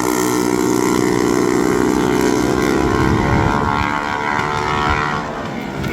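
Drag-racing mini bike's small-block engine running hard at full throttle on a record pass. About three seconds in, the engine note weakens and breaks up as it backs off.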